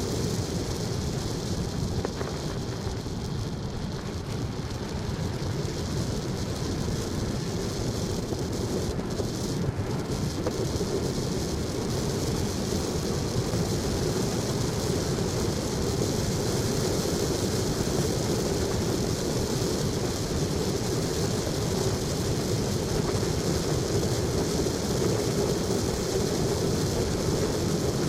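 Steady vehicle road and engine noise, an even rumble and hiss with no distinct events.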